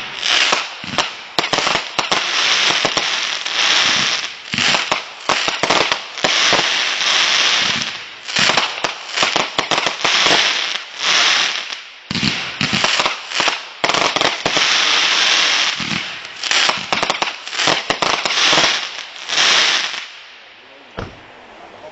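Firecrackers going off in a long, dense run of rapid pops and bangs for about twenty seconds, stopping abruptly near the end, followed by a single last bang.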